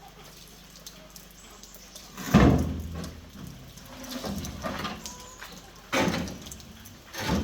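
Hand work on a rice grain cleaning fan under repair: three sudden knocks or scraping strokes, about two seconds in, six seconds in and right at the end, each fading quickly, with lighter handling noise between them.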